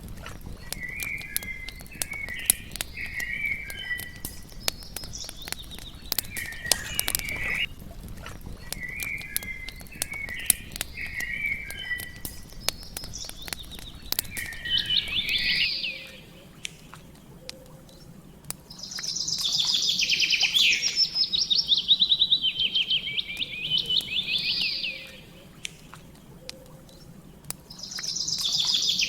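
Songbirds calling and singing over the crackle and pop of a campfire. About halfway through, the low rumble and most of the crackling drop out abruptly, and louder, rapid trilling bird songs take over in repeated phrases.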